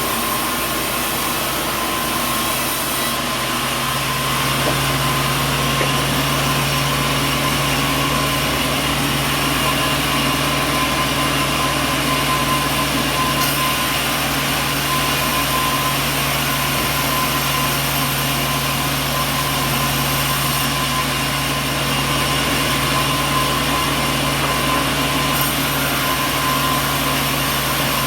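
Sawmill machinery running steadily, an even mechanical drone with a steady hum; a lower hum joins about four seconds in.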